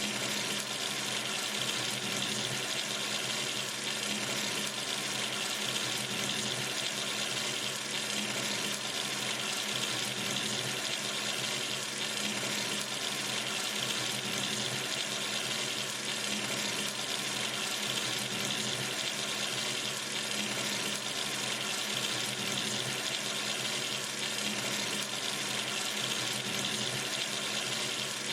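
Kitchen or bathroom sink tap running steadily, water splashing into the basin in an even hiss with no change.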